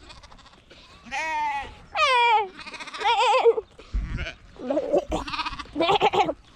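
Sheep bleating repeatedly, about six wavering calls one after another, one of them sliding down in pitch. There is a brief low thump about four seconds in.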